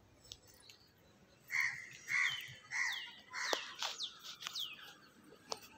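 Birds calling: a run of harsh calls roughly every half second, mixed with short falling chirps, starting about a second and a half in and lasting about three seconds. A few sharp clicks sound among them.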